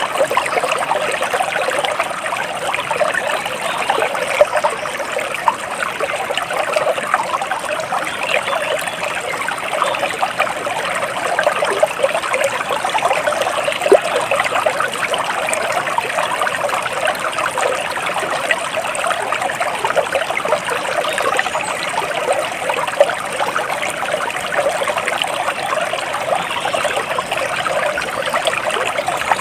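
Stream water flowing and trickling steadily, an even, unbroken rush of small splashes.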